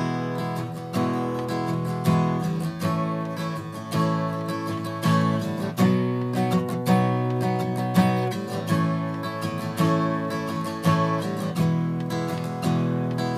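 Acoustic guitar strumming the basic open E, A and B major chords, each chord ringing between repeated strums as the progression moves through the changes.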